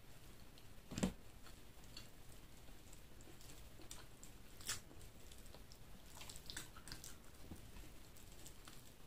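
Close-miked eating: soft chewing, smacks and small mouth clicks from someone eating chicken liver and gizzard with rice, with a sharper knock about a second in.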